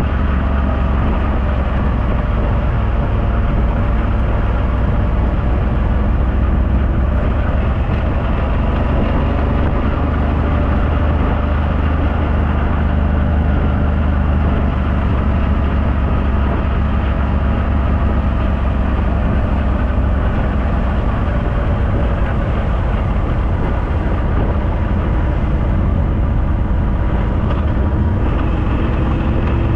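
Suzuki V-Strom V-twin motorcycle engine running at a steady cruising speed on the road, mixed with heavy, steady wind rumble on the microphone.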